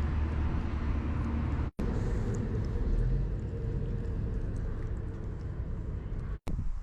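Small camper van driving: a steady low road-and-engine rumble mixed with wind noise. The sound cuts off abruptly twice, once about two seconds in and again near the end.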